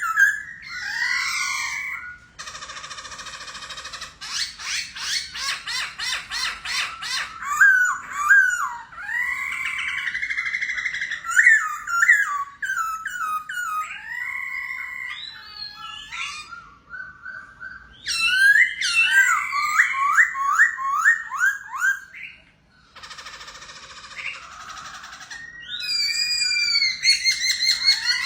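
A songbird singing a long, varied song of loud slurred whistles and fast trills. Twice it breaks into a raspy, noisy phrase, and there are short pauses between phrases.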